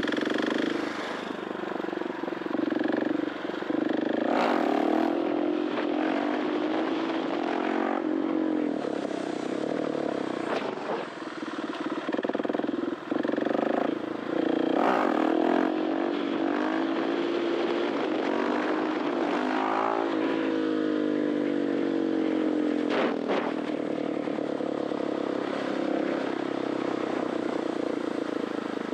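KTM 690 SMC R's 693cc single-cylinder four-stroke engine through an Arrow titanium exhaust, ridden hard: the engine note rises and falls repeatedly under acceleration, shifts and throttle lifts, with a long falling note about two-thirds of the way through.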